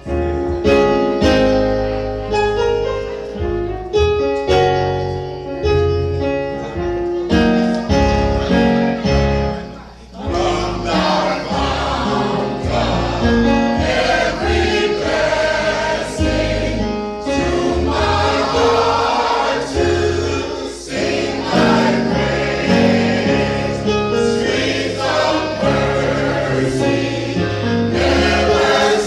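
Gospel music: a choir singing with instrumental accompaniment, with a brief drop in level about ten seconds in.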